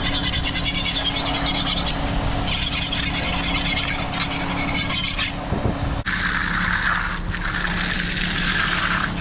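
Stiff broom bristles rasping steadily across fresh concrete, texturing the surface. A steady low engine hum runs underneath, and the scraping changes character at about six seconds.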